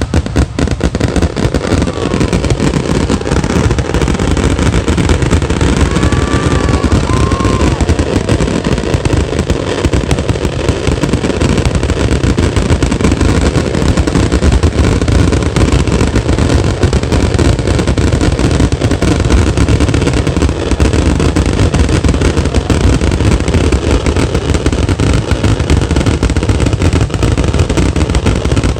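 Fireworks finale barrage: a dense, continuous volley of shell bursts and crackle with no pause between them, loud and booming.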